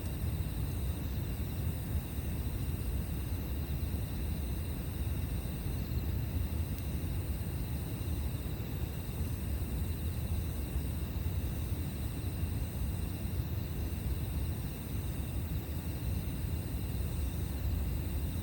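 Steady outdoor ambience beside a campfire: a continuous low rumble under several thin, steady high-pitched insect-like trills, one of them dipping briefly every couple of seconds. Almost no crackles or pops are heard.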